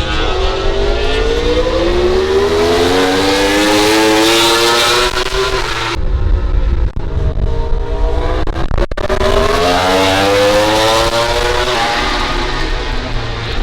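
MotoGP race motorcycle engine at full throttle, its note climbing steadily in pitch for about five seconds. It drops off about six seconds in, then climbs again, with an upshift step about twelve seconds in.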